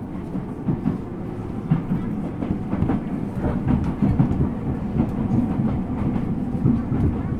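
Ueda Electric Railway 1000 series electric train running, heard from inside the car: a steady rumble of wheels on rail with irregular knocks and clacks from the track.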